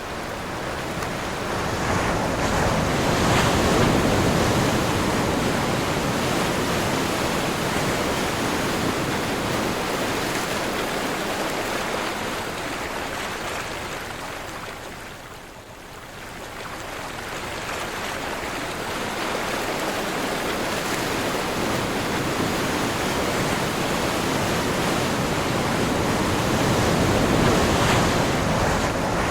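Ocean surf with wind: a wave builds and washes in during the first few seconds, the sound ebbs to a lull about halfway through, then another wave swells and breaks near the end.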